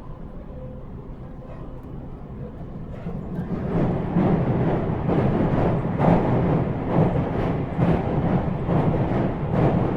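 JR 313 series electric train running on the rails. The rumble grows much louder about three and a half seconds in, then carries on with repeated knocks over a steady low drone.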